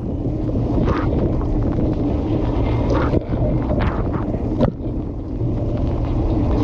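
Water spraying and splashing inside a running dishwasher, recorded from within the wash tub over a steady low rumble, with sharper splashes hitting now and then.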